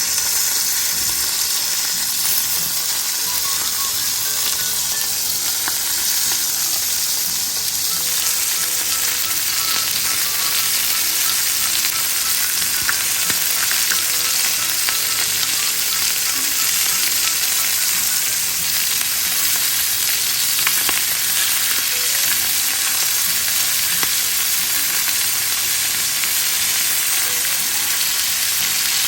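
Food frying in hot oil in a pan: a steady sizzling hiss with small scattered pops.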